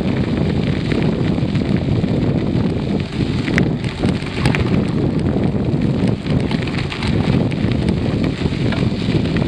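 Wind buffeting a microphone while riding a bicycle: a steady low rumble, with scattered small clicks and rattles on top.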